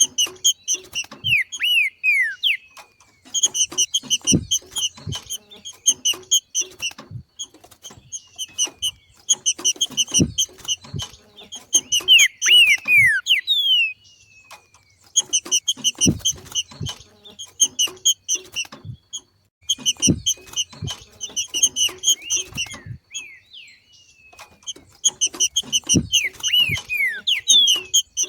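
Green-winged saltator (trinca-ferro) giving its 'macheado' call: bursts of rapid, evenly repeated chattering notes, each two to three seconds long with short pauses between, several ending in quick down-slurred notes. Low thumps sound under some of the bursts.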